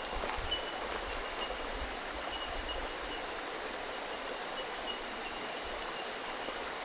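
Steady rush of flowing water from a stream, with a thin high note coming and going above it.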